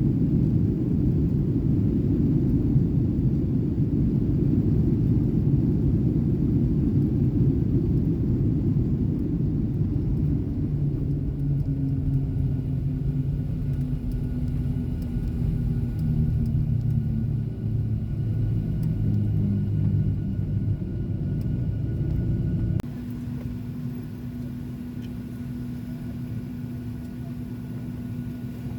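Boeing 737 cabin noise: a loud rumble of the jet rolling along, easing gradually as the aircraft slows, with a steady engine whine coming through about halfway. About 23 s in the sound drops suddenly to a quieter steady hum.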